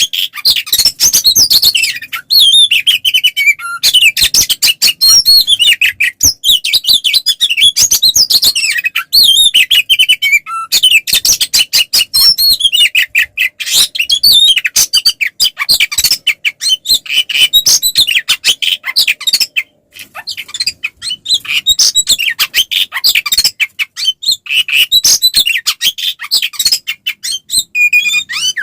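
Oriental magpie-robin (kacer) singing a loud, unbroken full song in fighting mood, a rapid run of varied whistles, trills and chatters. There is a brief pause about twenty seconds in.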